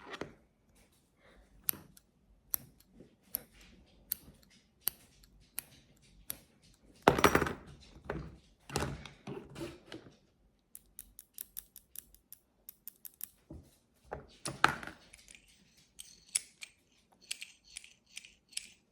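Snack packages handled up close for ASMR: scattered taps, clicks and plastic rustles, with a quick run of light taps a little past the middle and a few louder crinkling bursts.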